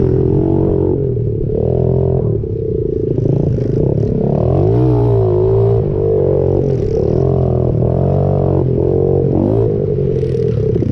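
Pit bike engine revving up and down repeatedly as it is ridden, its pitch rising and falling every second or so.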